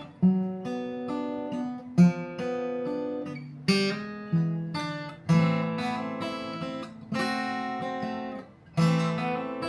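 Acoustic guitar strumming chords at a slow pace, roughly one strum every second and a half, each left to ring and fade, as the song's instrumental ending.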